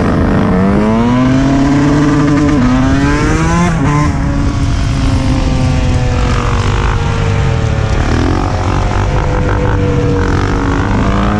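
Dirt bike engine revving up through the gears while riding: its pitch climbs and drops at each shift about two and a half and four seconds in, then holds a steady, slowly falling pitch at cruising speed.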